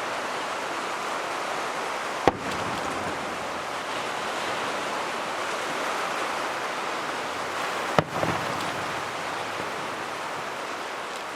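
Two aerial fireworks shells bursting, sharp bangs about two seconds in and again nearly six seconds later, over a steady rushing noise.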